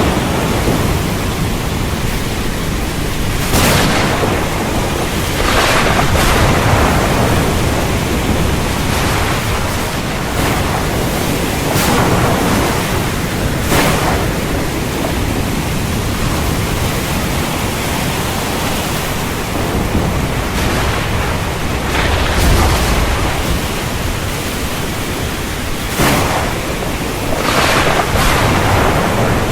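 Heavy rain falling steadily, with thunder cracking and rumbling several times through it.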